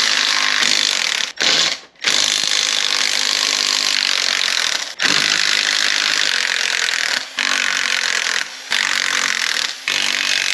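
A power tool running in long bursts with brief stops between them, as used on the transfer case teardown.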